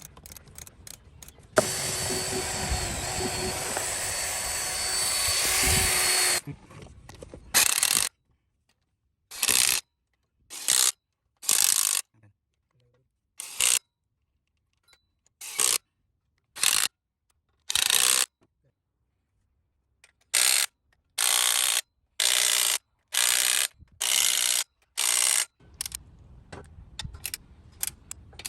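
A power drill runs for about five seconds with a steady whine. It then gives a string of a dozen or so short bursts, each under a second, with gaps between them.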